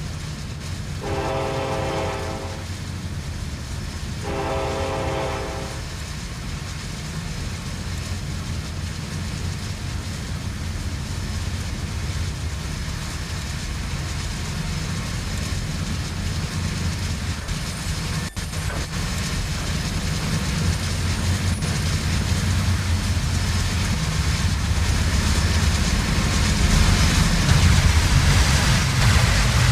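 A diesel freight locomotive's air horn sounds two long blasts in the first six seconds. Then the train's low rumble and wheels on the rails grow steadily louder as it comes closer.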